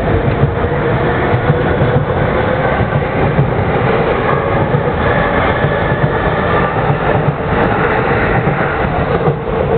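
Yamanote Line electric commuter train running alongside the platform at close range: a loud, steady noise of wheels on rails and running gear.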